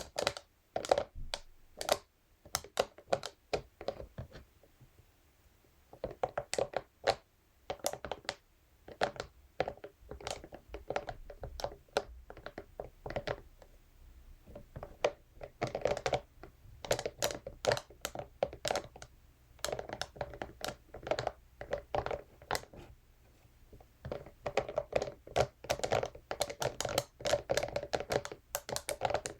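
Scalp massage brush tapped and scratched against a surface: quick clusters of sharp clicks and taps, with a couple of brief pauses.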